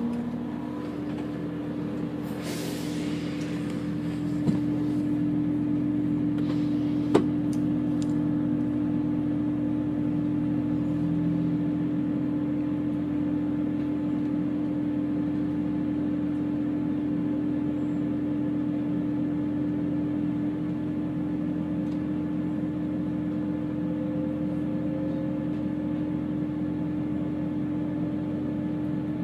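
Chiltern Railways diesel multiple unit running with a steady engine drone and a constant hum. A short hiss of air comes about two to three seconds in, and a sharp click about seven seconds in.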